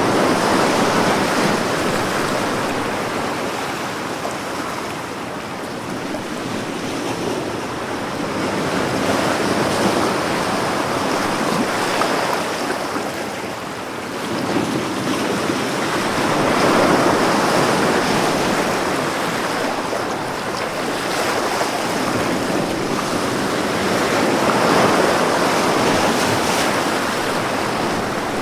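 Ocean waves breaking and washing on a beach, the surf swelling and falling back every several seconds.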